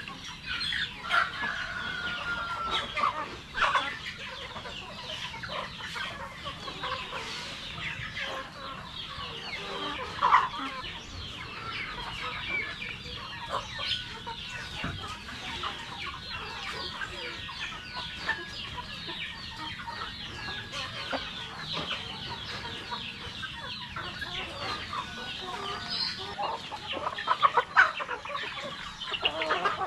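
A flock of Rhode Island Red chickens clucking steadily, many birds at once, with a few louder squawks, a rooster crowing at times.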